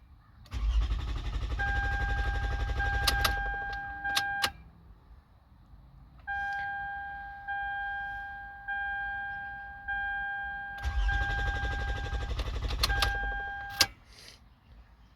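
2008 Toyota Sienna's V6 being cranked by the starter twice, about four seconds and then about three seconds, without catching, with a dashboard warning chime beeping about once a second between and over the cranking. The engine cranks but won't start, which is blamed on the immobilizer not accepting the key after the remote-starter reset.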